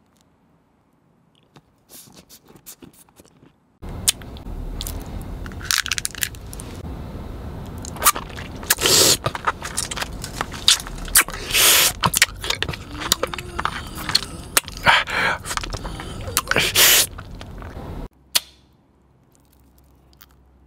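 Close-miked chewing with the lips closed: irregular loud crackly bursts over a low steady rumble, cutting off abruptly near the end. A few faint clicks come before it.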